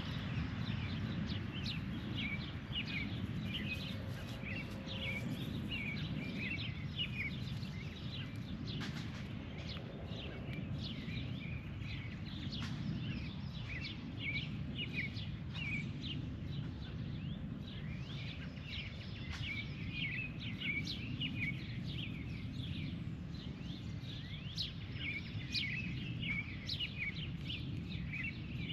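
Birds chirping over and over in short, quick calls, over a steady low background rumble.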